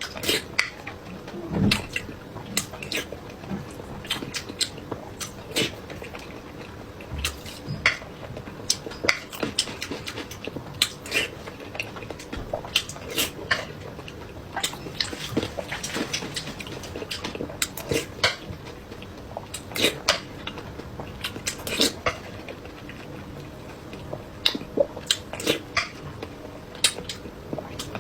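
A person eating noodles and egg close to the microphone: irregular wet chewing and mouth smacks, several a second, with occasional clicks of utensils on a bowl.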